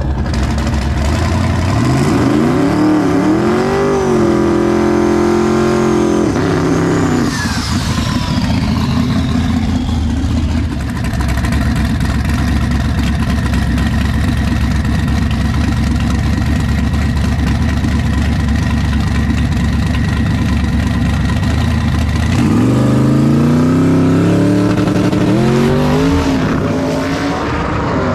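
Drag-race car engines at full throttle, pitch climbing in steps as they shift through the gears, with a long steady stretch of hard running in between. A second climb through the gears starts near the end.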